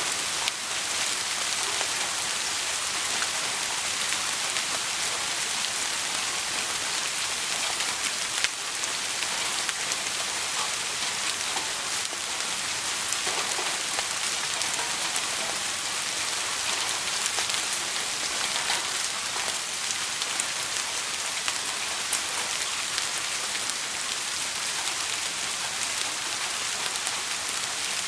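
Steady, dense rain hiss with scattered sharp ticks; one tick about eight seconds in is louder than the rest.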